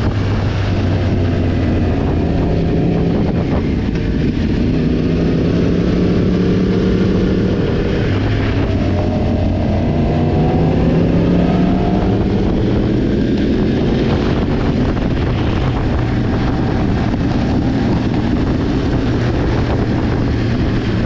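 Sport motorcycle engine running under way, its pitch climbing and falling several times with throttle and gear changes, with wind buffeting the microphone.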